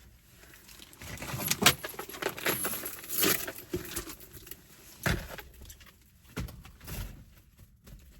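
Small accessories being handled and fitted inside a car: an irregular run of clinks, clicks and rustles with a few sharper knocks, like metal or plastic hooks clattering.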